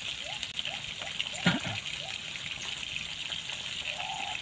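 Bird meat frying in oil in a pan on a portable stove, giving a steady sizzle while it is stirred with a spoon. One sharp knock comes about a second and a half in. A short rising chirp repeats in the background about four times a second at first, with longer chirps near the end.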